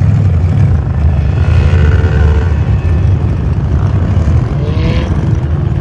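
Car engines running, a loud, steady low rumble.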